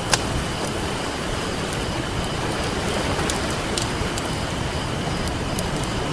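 Campfire crackling, with scattered sharp pops and one louder snap just after the start, over a steady wash of ocean surf.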